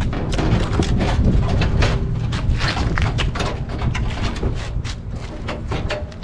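Low rumbling wind noise on the microphone, with scattered knocks and clicks from work around the car.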